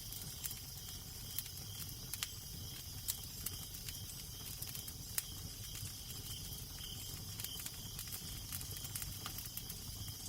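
Fireplace fire crackling, with irregular sharp pops and snaps over a steady low rumble and hiss of wind.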